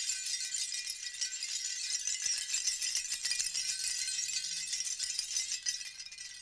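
Hand rattle of many small hard pieces shaken continuously, a dense crisp clatter that dips briefly near the end.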